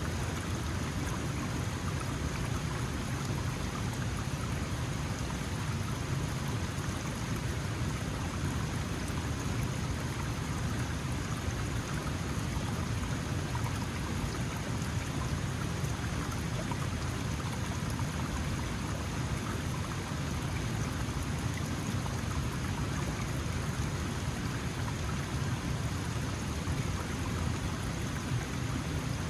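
Small mountain stream flowing over rocks, a steady splashing and gurgling rush of water.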